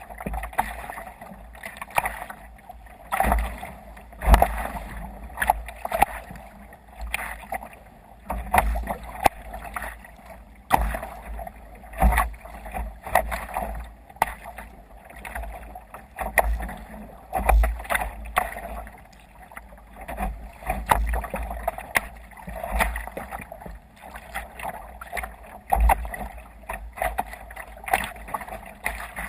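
Water splashing and slapping against a sea kayak's hull as it moves through waves under sail. The sound comes in irregular bursts with low thumps.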